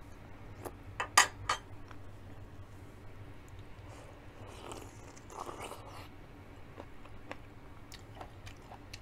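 Close-up biting and chewing of corn on the cob, with a quick cluster of sharp clicks about a second in as the loudest sound and a crunchy stretch of bites around the middle.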